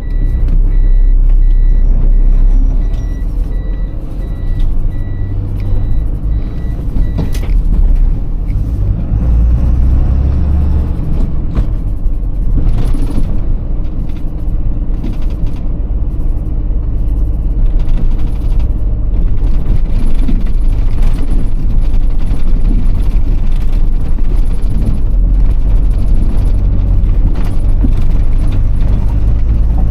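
Iveco Tector truck's six-cylinder diesel engine running through a drive. For the first seven seconds or so a steady, evenly repeating beep sounds at one pitch, and a brief hiss comes about twelve seconds in.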